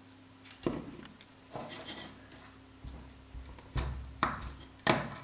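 Hand tools working on the phone's circuit board and parts. A knock comes about half a second in, then scraping, low thuds and a run of sharp clicks.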